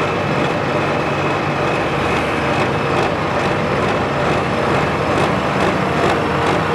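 Farm-stock pulling tractor's diesel engine running hard and steady under full load during a pull.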